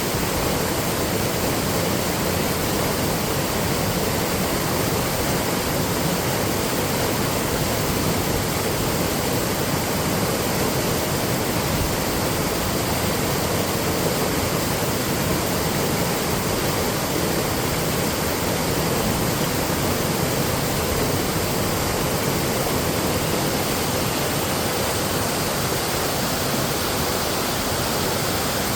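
Waterfall rushing steadily, a constant full roar of falling water that does not change.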